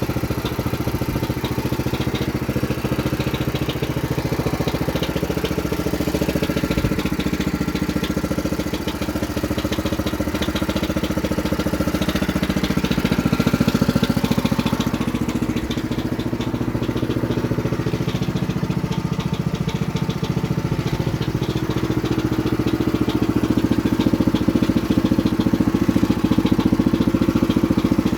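Engine of a homemade tractor running steadily with an even, rapid firing beat, getting a little louder about halfway through and again in the last few seconds.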